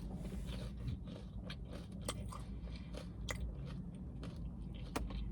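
A person chewing French fries, with a few short sharp mouth clicks scattered through.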